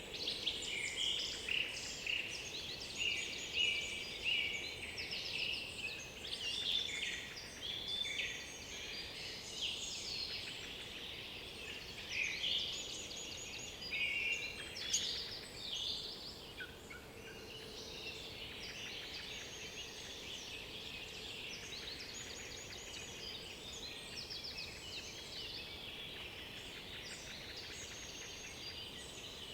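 A chorus of woodland songbirds singing over one another, with many short, high, twittering and warbling phrases. It is busiest in the first half and thins to a steadier background of song after about sixteen seconds.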